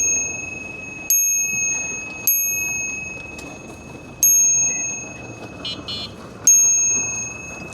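Bicycle bell dinging four times, single strikes spaced one to two seconds apart, each ringing out and fading. A brief faint rattle comes in just before the last ding.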